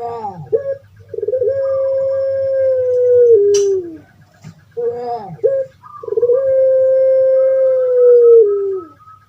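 Puter pelung, a Barbary dove (ringneck dove) kept for its song, calling twice: each call opens with a short rolling coo, then a long held note of about two and a half seconds that drops in pitch at the end. A single sharp click sounds between the two calls, over a faint steady hum.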